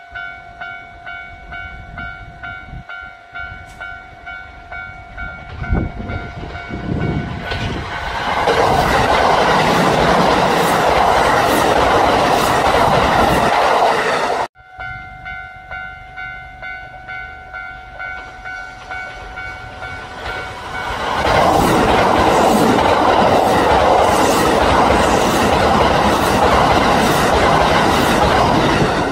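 A bell-like warning tone pulses about twice a second, then a train passes with loud wheel-on-rail noise that drowns it out. The sound cuts off abruptly about halfway through, and the same sequence repeats: the pulsing tone alone, then another train passing.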